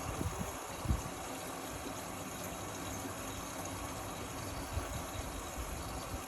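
Indesit Innex XWA 81252 front-loading washing machine running, a steady noise of water and machinery with a short low thump about a second in.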